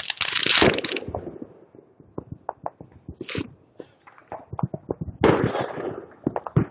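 Fireworks going off in the neighbourhood: a loud hiss that stops about a second in, then scattered pops and cracks with two short crackling bursts.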